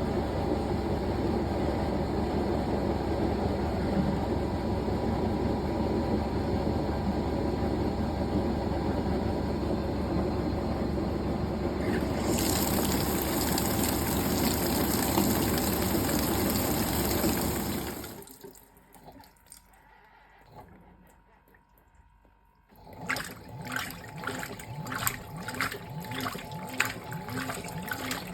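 Fisher & Paykel GW712 top-loading washing machine running with a steady whooshing hum, a brighter hiss joining about twelve seconds in, that cuts out about eighteen seconds in. After a few seconds of quiet, water starts splashing and trickling into the tub.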